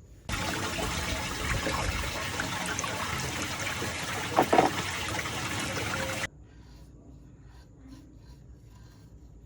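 Water rushing and swirling down a strong sink whirlpool drain, with two brief louder splashes or gurgles about four and a half seconds in. The rush cuts off abruptly about six seconds in, leaving only faint scattered sounds.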